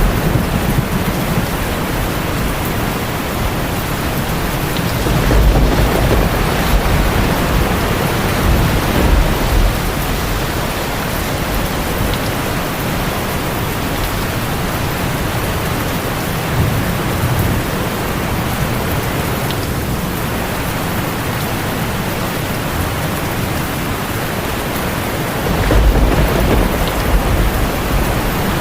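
Heavy rain drumming steadily on a tin roof, with low rolls of thunder swelling a few seconds in and again near the end.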